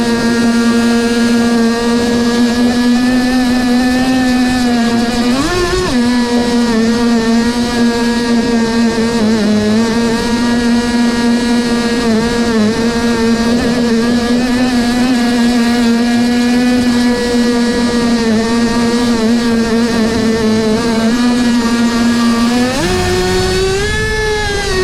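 Small nitro model engine running at a steady high speed, with a brief rev up about five seconds in and another near the end.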